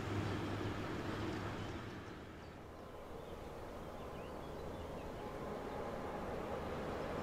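Rumble of a passing train dying away into the distance, then the growing rumble of an approaching electric locomotive hauling a container freight train, getting louder through the second half.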